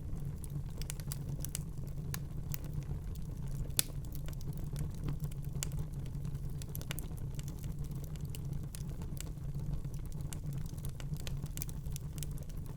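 Fire crackling in a fireplace: scattered sharp pops and snaps over a steady low rumble, with one louder pop about four seconds in.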